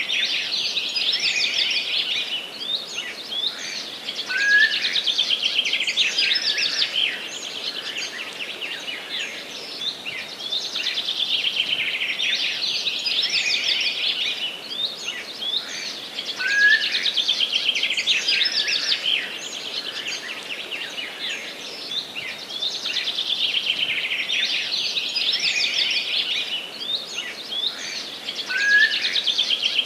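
Songbirds singing in a forest: a dense run of high, rapid chirping phrases that swell and ease every few seconds, with a short lower whistled note about every twelve seconds.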